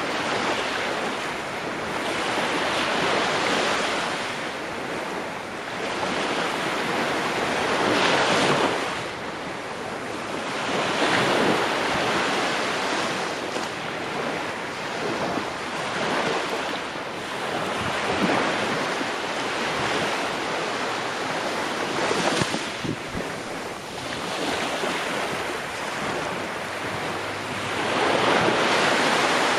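Ocean waves breaking and washing in, a steady rush of surf that swells and ebbs every few seconds, with stronger breakers now and then.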